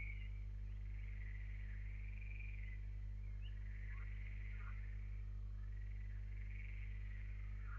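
Faint, continuous chirping and warbling animal calls over a steady low hum, probably picked up by an outdoor webcam microphone.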